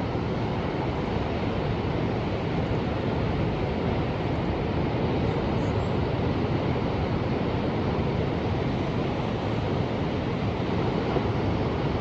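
Ocean surf: a steady wash of waves with some wind.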